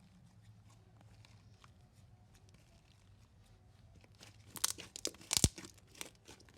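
Marshmallow slime being stretched and squished by hand, faint at first, then crackling and popping loudly for about a second and a half near the end as trapped air bursts.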